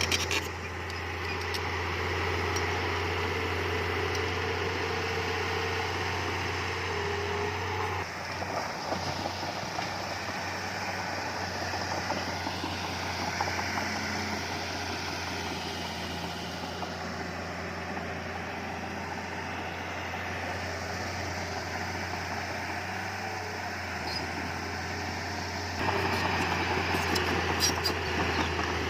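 Heavy earthmoving machinery running: a steady low engine hum under mechanical noise, the sound changing abruptly about 8 seconds in and again near the end.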